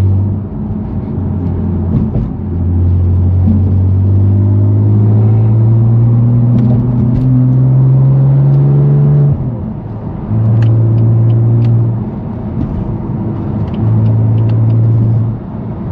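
Straight-piped S55 twin-turbo inline-six of a 2018 BMW M3 Competition accelerating, its low exhaust note climbing slowly in pitch for several seconds before cutting off sharply about nine seconds in. Two short bursts of throttle follow.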